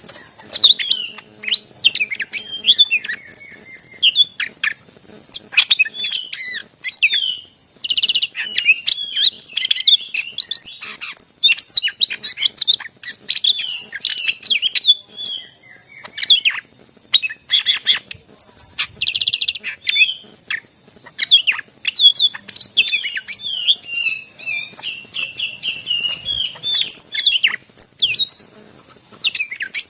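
Cucak ijo (green leafbird) singing a loud, continuous, varied song of quick whistles, chirps and trills, broken by two short harsh rattles about eight and nineteen seconds in.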